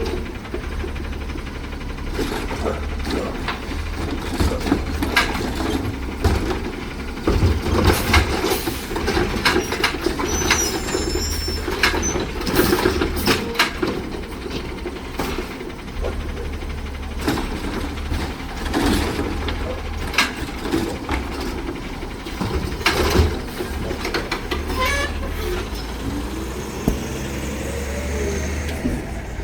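Garbage truck running with a steady low engine rumble, and repeated clanks and bangs of the truck at work on its route.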